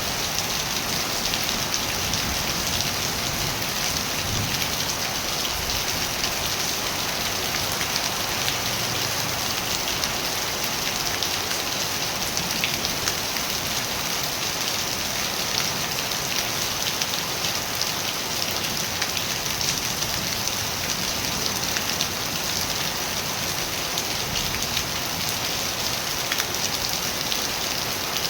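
Steady rain falling, a dense even hiss of many drops with fine pattering ticks.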